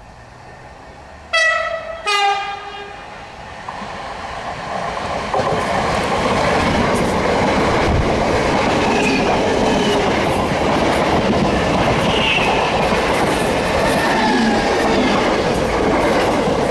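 Gatwick Express Class 442 electric train sounding two short horn notes, a higher one then a lower one, about a second in, then running through the station at speed with a loud, steady rush of wheels on rail.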